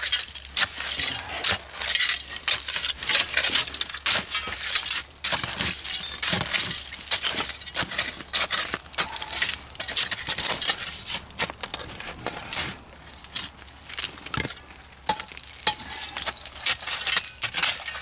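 A small shovel digging and scraping through a dump layer full of broken glass and rusty metal, with constant glass clinks and jangling rattles. It eases off a little after about twelve seconds, then picks up again.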